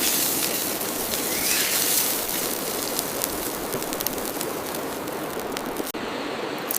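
Beef steak sizzling in olive oil on a searing-hot stone, a steady hiss peppered with fine crackles and pops. The sound changes abruptly near the end.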